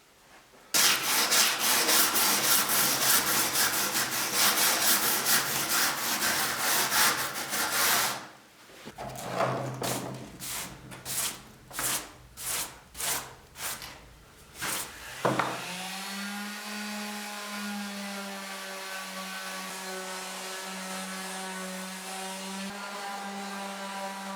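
Wood being worked by hand with fast back-and-forth scraping strokes, which slow to about seven separate strokes. About two-thirds of the way in, a power tool's motor starts and runs at a steady pitch.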